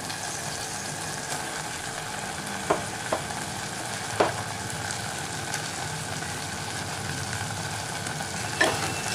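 Cabbage sizzling in oil with onion-tomato masala in a cooking pot as it is stirred, with a few sharp knocks of the stirring spoon against the pan.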